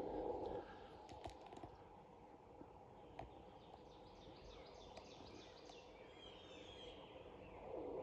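Faint woodland birdsong: a bird gives a run of quick high chirps that ends in a falling trill, over quiet forest background. A few soft footsteps crunch on the leaf-covered trail.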